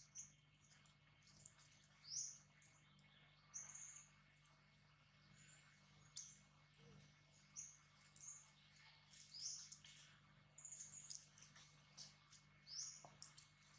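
A bird's short, faint, high chirps, each rising in pitch, repeated every second or two.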